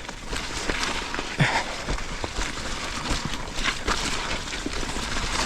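Mountain bike ridden over a wet, muddy trail: tyres rolling through mud with a steady rumble, and many small clicks and rattles from the bike over rough ground.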